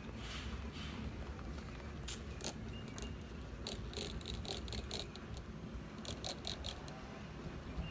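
Trigger spray bottle squirting cleaning solution onto the paint in short hissing bursts: a few single squirts, then two quick runs of several squirts each.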